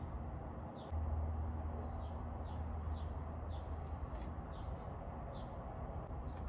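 A bird calling in a steady string of short, falling chirps, roughly two a second, over a low steady rumble that gets louder about a second in.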